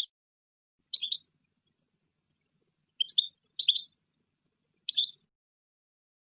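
European goldfinch giving short, high twittering calls: four brief bursts spaced one to two seconds apart.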